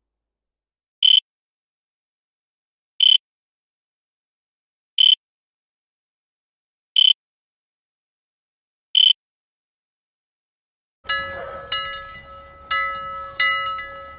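Electronic alarm beeping: five short, high single beeps, one every two seconds, with total silence between them. About eleven seconds in, a different alarm sound starts, a ringing tone struck about every two-thirds of a second over a steady lower tone.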